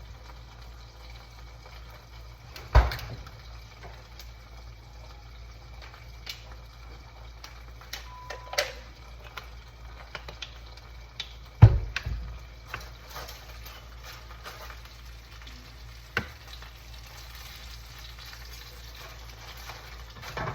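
Stuffed chicken breasts frying in a pan with a steady sizzle, broken by a few sharp kitchen knocks and clatters, the loudest about twelve seconds in.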